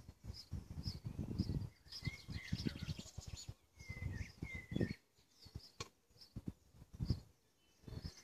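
Small birds chirping, with a short high call repeated about twice a second and a few other chirps and a brief trill, over irregular low bursts of wind noise.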